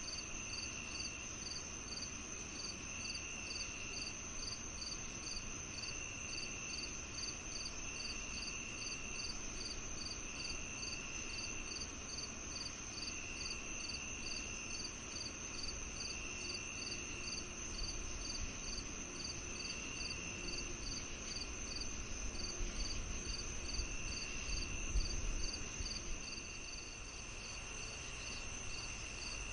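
Crickets and other insects calling together: a steady high trill, a regular chirp about twice a second, and a lower trill about a second long repeating every two or three seconds. A low rumble swells briefly in the second half.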